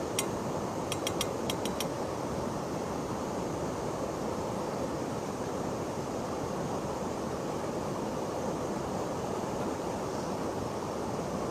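Steady rushing of river water flowing. A quick run of about six small sharp clicks comes in the first two seconds.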